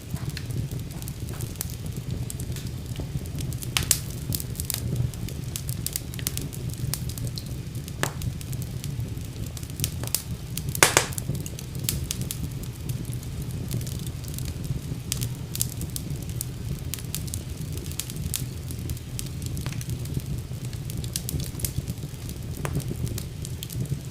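Wood fire burning in a fireplace: a steady low rumble of the flames with irregular crackles and pops, the loudest cluster of pops about eleven seconds in.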